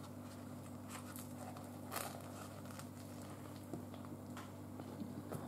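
Faint chewing of a bite of barbecue rib sandwich: a few soft crackles and clicks, the clearest about two seconds in, over a steady low hum.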